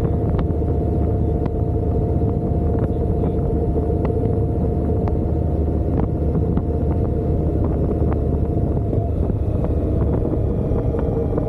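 Motorcycle engine running steadily at a constant pitch, over a low rumble, with scattered short clicks.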